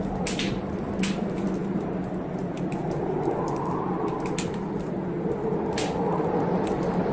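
Wood fire in a fireplace crackling, with sharp irregular pops over a steady low rushing noise.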